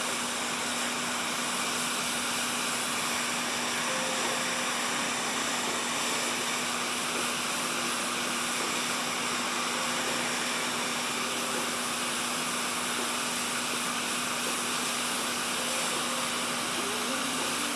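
Steady rushing air noise with a constant low hum underneath.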